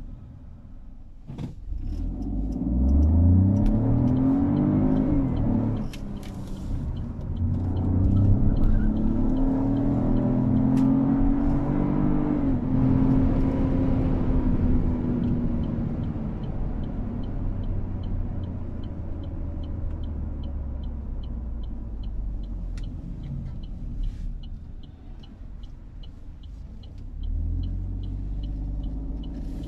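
Opel Corsa's 1.2-litre turbocharged three-cylinder engine, heard from inside the cabin, pulling hard from low speed: the revs rise, drop at a gear change about six seconds in, and rise again before easing to a steadier cruise with road noise. A light regular ticking runs through the second half.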